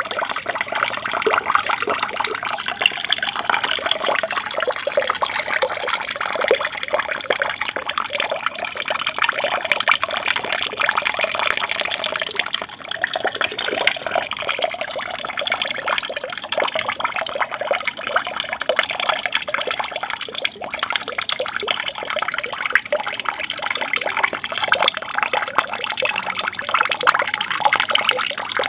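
Water from a small aquarium waterfall splashing and trickling steadily in an unbroken flow.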